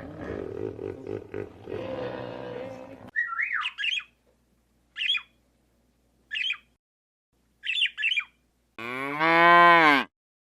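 Animal calls: a rough growling call, then four short, high, squawking chirps a second or so apart, then about a second from the end a loud, drawn-out, moo-like call that rises and falls in pitch.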